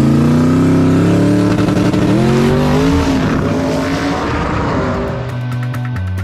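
Drag car engine at full throttle, its pitch climbing steadily as it accelerates down the strip, then fading. Music with a beat comes in near the end.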